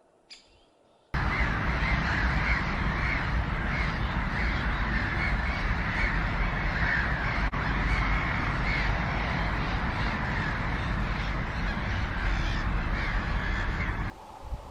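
Many birds calling at once in a dense, continuous clamour, as from a large flock or colony. It starts and stops abruptly about a second in and near the end, and is preceded by a single short chirp.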